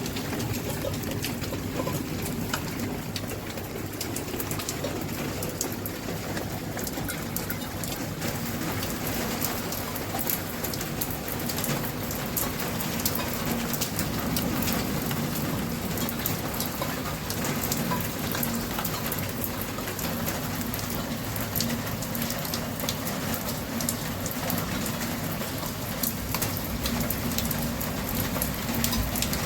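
Heavy rain falling steadily, with many individual drops ticking on surfaces.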